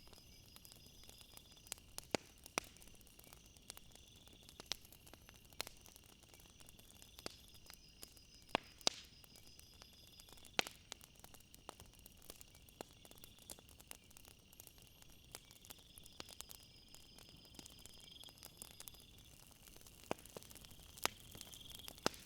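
Crickets chirping in a steady, pulsing high trill, with scattered sharp clicks and pops throughout.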